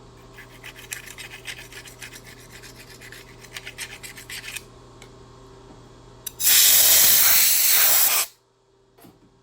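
Hand deburring of a freshly milled key slot: quick rasping strokes of metal on metal for about four seconds. About two seconds later comes a loud, even hiss lasting nearly two seconds that stops abruptly, over a steady low machine hum.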